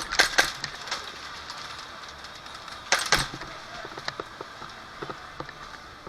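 Airsoft guns firing: a quick string of sharp cracks at the start, another short burst about three seconds in, and scattered single cracks in between.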